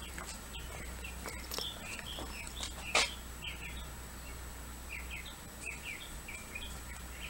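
Birds chirping, with short, falling chirps coming in clusters, several a second at times. A single sharp click about three seconds in.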